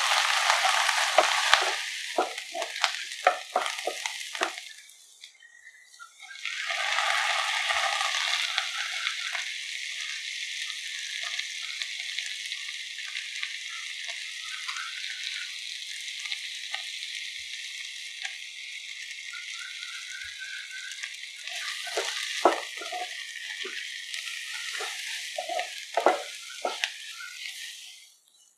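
Sliced onions, garlic, green chillies and curry leaves sizzling in hot oil in a nonstick pan, with a spatula scraping and knocking against the pan as they are stirred. The sizzling dips briefly about five seconds in, then runs on steadily. The stirring strokes come back near the end, when the onions are cooking with tomato and spice powders.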